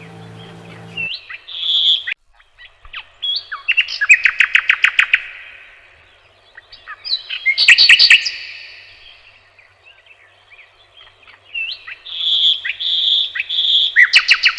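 Songbird singing in short phrases of chirps and fast trills, with loud trilled bursts about four and eight seconds in and three clear whistled notes near the end. A low steady hum stops about a second in.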